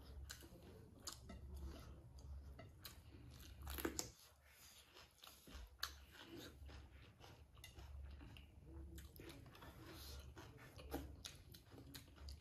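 Faint, close-miked eating sounds: chewing and crunching, including crisp bites of raw cucumber, heard as a scatter of small wet clicks and smacks, with a louder crunch a little before four seconds in.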